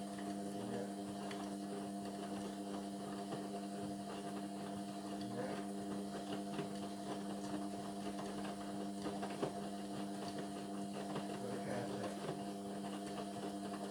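Indesit washing machine running mid-cycle: a steady, even motor hum with light clicking and rattling over it.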